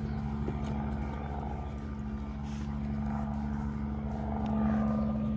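A steady low mechanical drone, like an engine or motor running at constant speed, that holds one pitch with no rise or fall.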